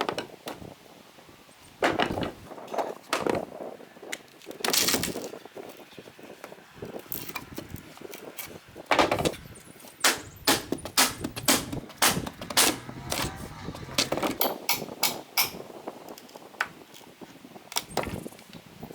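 Irregular sharp knocks and bangs on wood, with a quick run of blows at about two to three a second in the middle: hammering and handling boards while a wooden cabin is taken apart.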